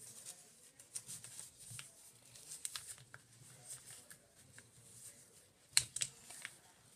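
A blank sheet of paper being folded and creased by hand: soft scattered rustles and crinkles, with one sharper crackle about six seconds in.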